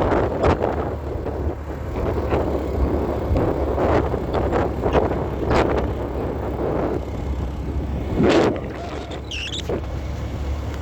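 Motorbike riding along a road, its engine running steadily under irregular wind and road buffeting.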